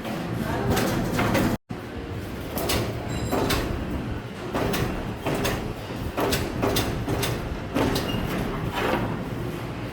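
Workshop noise: sharp metallic knocks and clicks repeating every half-second to a second over a steady low rumble, with a brief dropout about one and a half seconds in.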